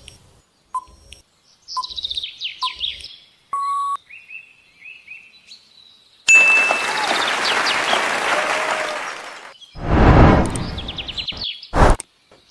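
Bird-like chirps in quick falling trills with a few short ticks, then a long rushing noise about halfway through and a louder, deeper burst of noise near the end.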